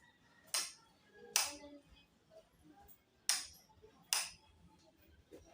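Four short, sharp slaps or cracks of sound, in two pairs: two about a second in and just under a second apart, then two more about two seconds later with the same spacing.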